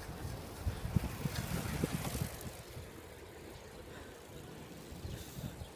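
Wind rumbling on the microphone of a camera riding along on a moving bicycle, with a few soft low knocks in the first two seconds before it settles quieter.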